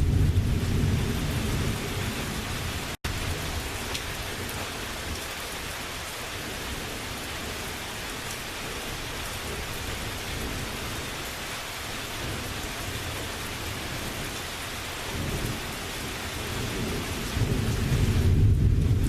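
Steady rain falling through a thunderstorm. A low rumble of thunder fades over the first couple of seconds, and another rumble builds near the end.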